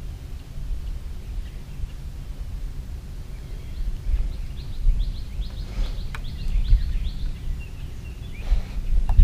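Steady low outdoor rumble, with a bird's rapid trill of short repeated chirps from about four to seven seconds in.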